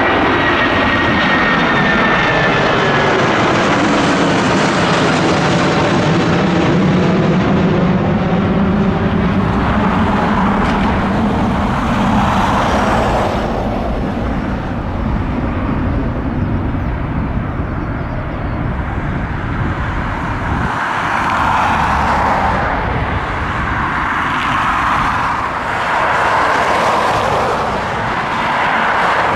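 Boeing 757 jet airliner passing close by, its engine whine sliding down in pitch in the first few seconds, then a loud rumble that eases off about halfway through but keeps going.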